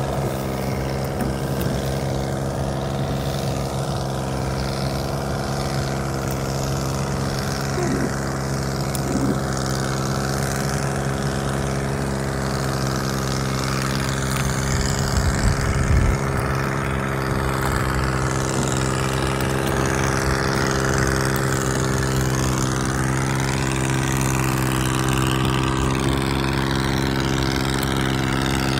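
Motorboat engine running at a steady pitch, with wind and water noise over it. A few brief low knocks come about halfway through.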